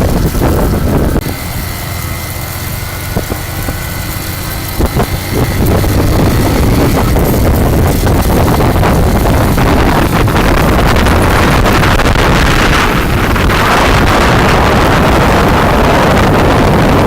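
Wind buffeting the microphone on a moving motorcycle, with the engine running beneath it. The roar eases for a few seconds about a second in, letting faint steady engine tones through, then swells again to a loud, steady rush.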